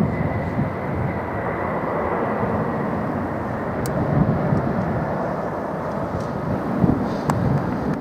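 Jet airliner engines passing on final approach to land, a steady rumbling roar with a thin high whine over the first few seconds.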